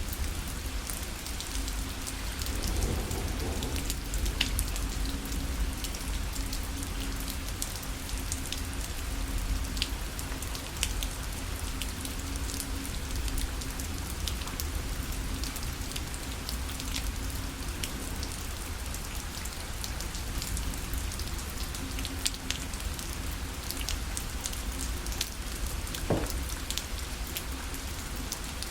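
Rain falling steadily on a parasol: a constant patter with individual drops ticking sharply on the canopy, over a low rumble.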